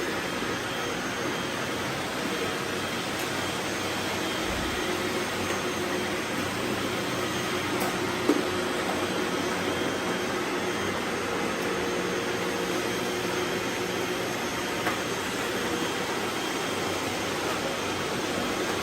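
Robot vacuums running, a steady whir of their motors and brushes with a faint hum.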